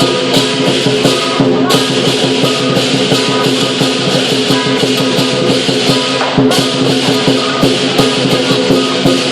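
Lion dance percussion: a drum and clashing cymbals beaten in a fast, steady rhythm, with ringing metal tones held underneath.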